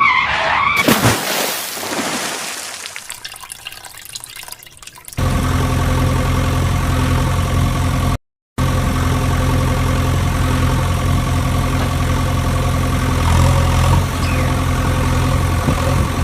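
A rushing, splash-like noise that fades away over the first few seconds, then a steady engine idling hum that starts abruptly and runs on, broken once by a brief dropout.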